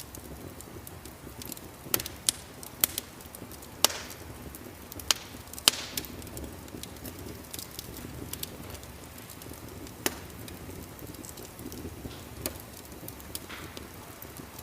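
Wood fire in a fireplace crackling, with irregular sharp pops over a low steady rumble; the loudest pops bunch together in the first half.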